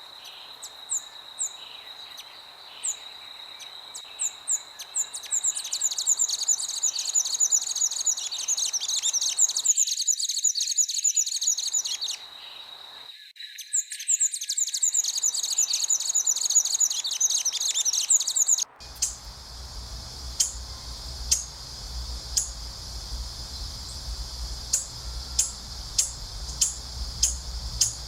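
Wild birds singing in fast, high trills over a steady high-pitched whine. About two-thirds in there is an abrupt cut to a different recording: a low rumble with single sharp chirps about once a second.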